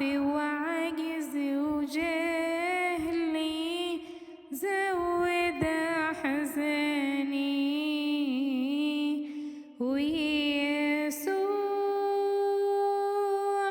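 A woman singing an Arabic Christian hymn in long drawn-out phrases with a wavering, ornamented pitch. She breaks off twice, then holds one steady note near the end.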